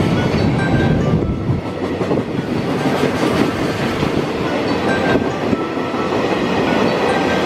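Freight train passing through at speed, its wagons rolling by with a loud steady rumble and wheels clicking over the rail joints.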